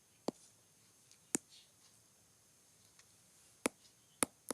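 A few separate sharp clicks or taps, four in all: two in the first second and a half and two more near the end, like small hard objects being handled or set down.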